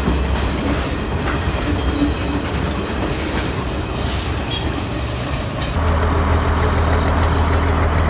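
Diesel multiple unit passenger cars rolling past close by, wheels clattering over the rails with brief high-pitched squeals. About two-thirds of the way in this gives way to the steady low hum of a diesel multiple unit power car's engine running.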